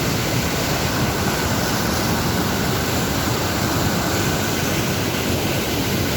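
Mountain river water rushing, a loud steady wash of noise without a break.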